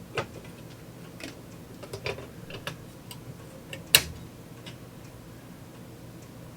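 Irregular metal clicks and clanks from handling a Dietz Vesta railroad lantern while lighting it. The loudest, sharpest click comes about four seconds in.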